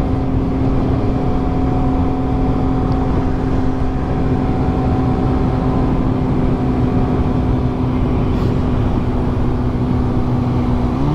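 Motorcycle engine running at a steady cruising speed, one even note held throughout over a low rumble of wind noise, its pitch stepping up right at the end.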